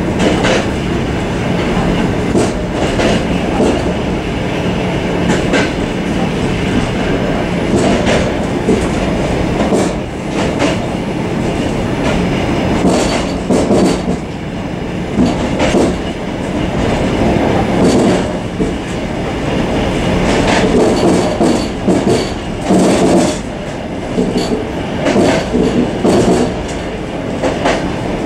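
Suburban passenger train running, heard from inside its vestibule: a steady rumble and rattle, with irregular clacks as the wheels pass over rail joints.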